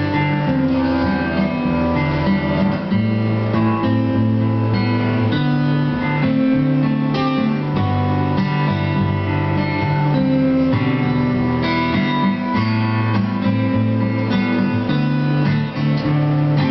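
Two acoustic guitars strumming chords in the instrumental introduction of a song, with the bass notes changing every second or two and no singing yet.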